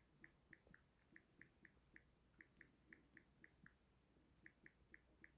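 Faint, short, high chirps of a small bird, repeated about three to four times a second, pausing for under a second near the middle and then resuming.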